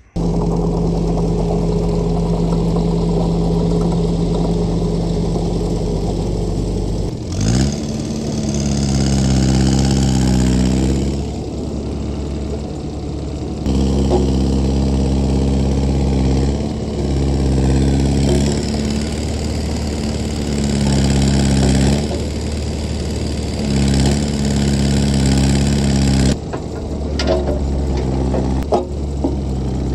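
Excavator engine running under changing load, its pitch stepping up and down every few seconds as the machine is worked.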